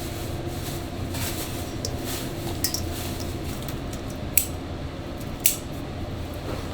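Dishes and metal utensils clinking in a kitchen over a steady low hum, with two sharp clinks in the second half.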